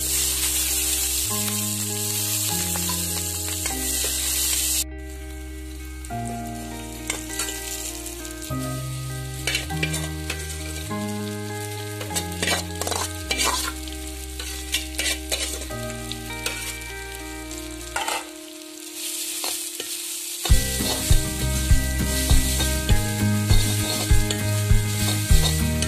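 Food sizzling in hot oil in a steel wok, loudest in the first few seconds as the sliced aromatics go in. Then a quieter fry with scattered scrapes of a metal spatula, and from about 20 seconds in, rapid scraping and clatter as instant noodles are stir-fried. Background music plays under it.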